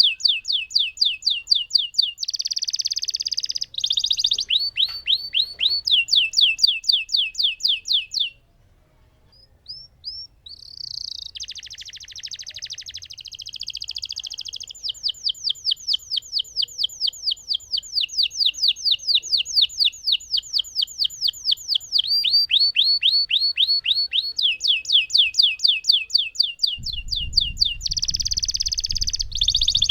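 Lemon canary singing a long rolling song: long runs of rapid, repeated falling notes alternate with buzzy trills. There is a short break about a third of the way through. Near the end a low rumble comes in under the song.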